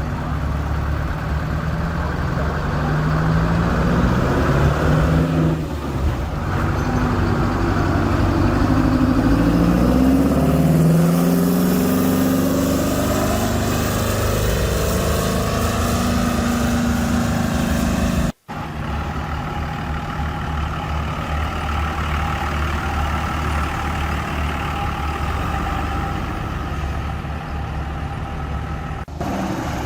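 Truck engine pulling away and accelerating through several gear changes, its pitch climbing and dropping back in steps. After an abrupt cut about 18 seconds in, a truck engine runs steadily.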